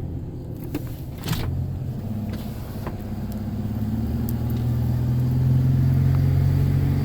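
A car's engine and road noise running steadily, growing louder about halfway through, with a few faint clicks early on.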